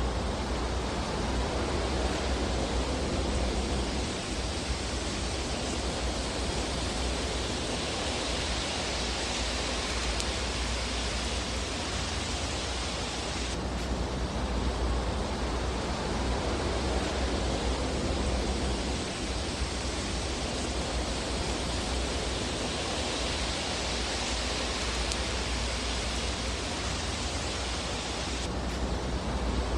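Steady fire ambience from a fireplace: an even hiss with a low rumble underneath. The hiss changes abruptly about halfway through and again near the end.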